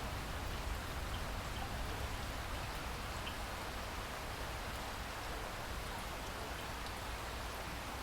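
Steady rain falling on a lake, an even hiss with scattered drop patters and a low rumble underneath.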